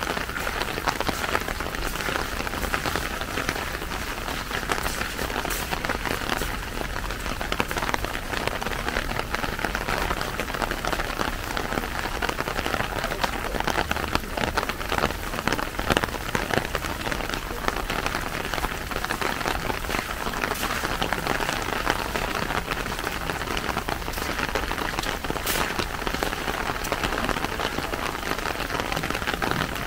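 Steady rain falling, a continuous dense patter of individual raindrops.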